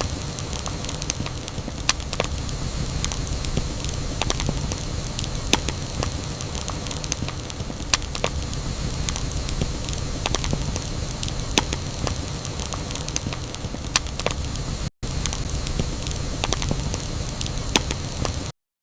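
Campfire burning: a steady hiss and low rumble of the flames with scattered sharp crackles and pops from the burning wood. The sound drops out for an instant about fifteen seconds in and cuts off to silence just before the end.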